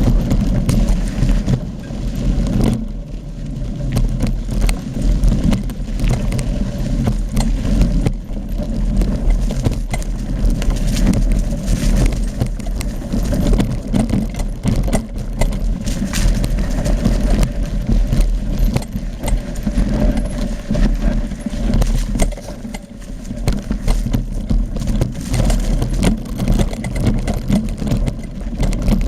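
Mountain bike riding down a rough trail: continuous rattling of the bike with frequent small knocks and clicks over a deep rumble.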